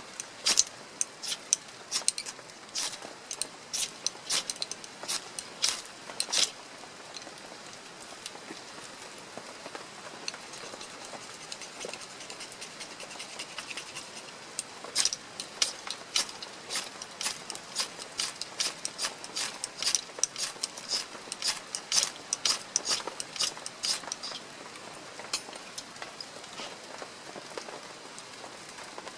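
Rain falling, with irregular sharp drips ticking onto a surface over a steady hiss; the drips come thick during the first several seconds and again through the middle to latter part, thinning out between and near the end.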